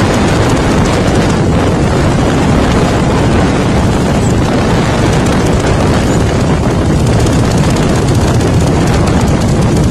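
Harley-Davidson motorcycle engine running, a loud, steady rumble.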